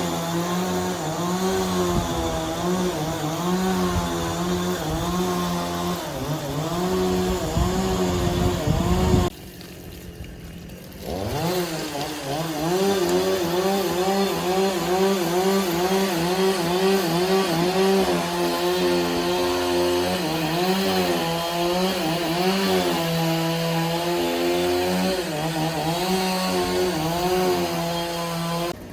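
Two-stroke chainsaw engine running flat out while cutting wood, its pitch dipping and recovering over and over as the chain bites. The sound breaks off suddenly about nine seconds in and comes back a couple of seconds later, the engine speeding up again before cutting on.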